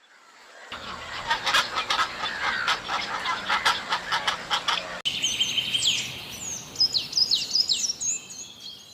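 Birds calling: for about five seconds a dense, rapid chatter of many overlapping chirps, then after an abrupt cut a series of clear, high whistled notes that sweep downward, fading out near the end.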